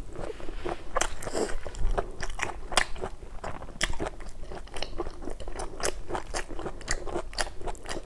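A person chewing crunchy fried food with the mouth closed, heard up close: irregular crisp crunches and mouth clicks, several a second.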